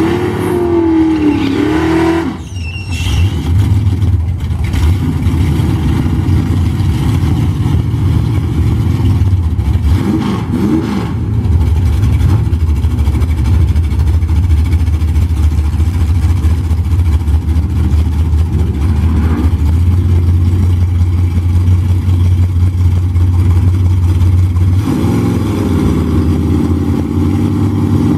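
Drag cars' engines revving in the first couple of seconds, with smoke off a burnout, then a loud, steady low rumble of the engines idling at the starting line, and revving again near the end.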